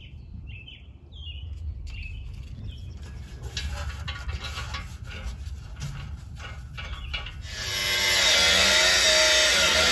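A few bird chirps, then scraping and knocking of tools during exhaust work. About 7.5 s in, a loud motor starts running at speed with a dense whine.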